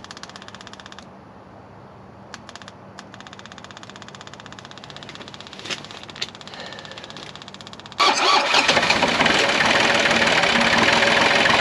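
Electric fuel pump ticking rapidly as it primes the fuel system of the Takeuchi excavator's diesel engine. About eight seconds in, the diesel catches and starts, suddenly running loud and steady: the engine firing once the fuel is bled through to the injection pump.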